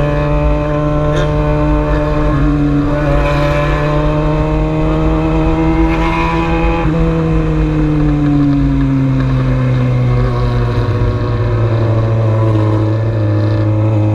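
Motorcycle engine running at highway cruising speed, recorded on the bike with wind rushing over the microphone. The engine note climbs gently, then eases off about halfway through and settles steady.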